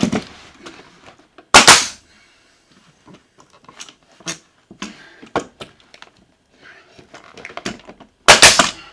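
Sharp, loud bangs from nailing pine boards: one about one and a half seconds in and a double bang near the end, with small knocks and clicks between.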